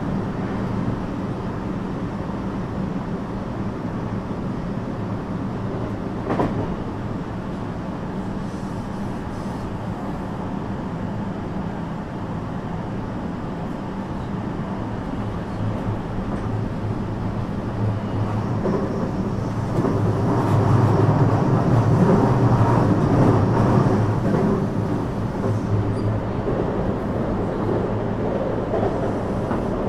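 JR West 321 series electric train heard from inside a passenger car while running: a steady rumble of wheels on rail with a low hum. One sharp knock comes about six seconds in, and the noise grows louder for a few seconds about two-thirds of the way through.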